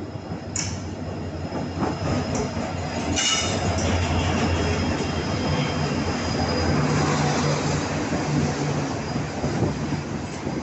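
Train running on rails: a steady rumble that grows a little louder, with brief metallic wheel screeches about half a second in and again about three seconds in.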